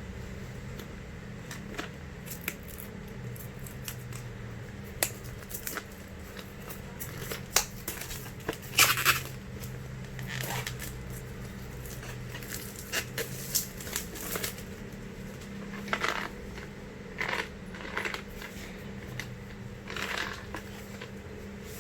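Unboxing of a Coil Master DIY coil-building kit: hands handle its packaging and small parts in scattered clicks and short rustling, crinkling noises. The loudest cluster comes about nine seconds in. A steady low hum runs underneath.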